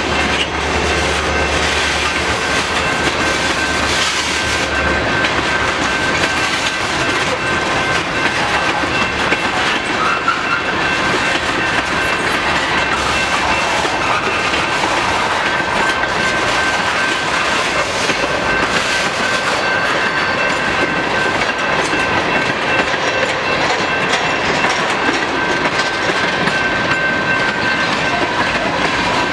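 Freight cars of a long manifest train, covered hoppers then tank cars, rolling steadily past a grade crossing: a continuous rumble of steel wheels on rail with clickety-clack over the joints.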